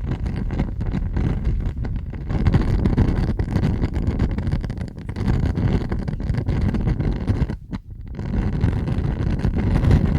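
Fire roaring with a deep, steady rumble and scattered crackles, dropping away briefly about three quarters of the way through before swelling again.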